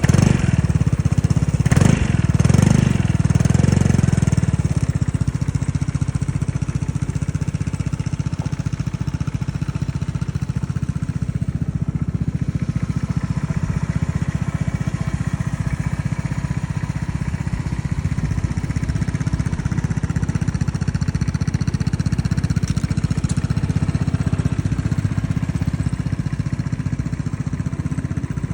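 Vespa GTS 300 scooter's single-cylinder four-stroke engine breathing through a Leo Vince aftermarket exhaust, revved briefly a few times in the first four seconds, then idling steadily.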